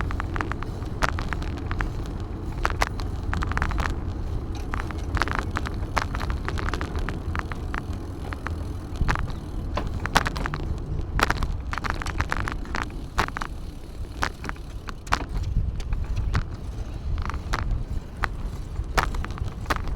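Riding a bicycle: a steady low rumble of wind and tyres on the path, with frequent short clicks and rattles throughout.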